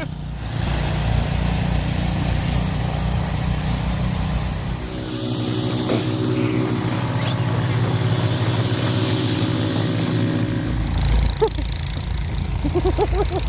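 An engine running steadily over a constant hiss. Its note changes about five seconds in and again near eleven seconds.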